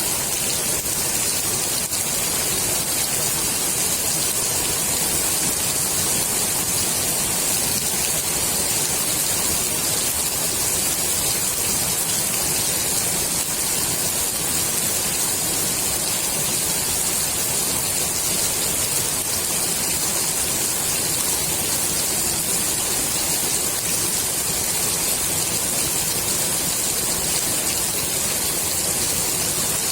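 Steady rain falling onto a swimming pool's water surface: an even, unbroken hiss of drops that keeps the same strength throughout.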